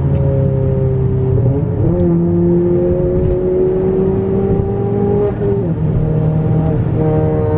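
Straight-piped turbocharged engine of a 10th-gen Honda Accord, with muffler and resonator deleted, running under way with a steady exhaust drone. Its pitch slowly rises, with sudden changes about two seconds in and again about five and a half seconds in.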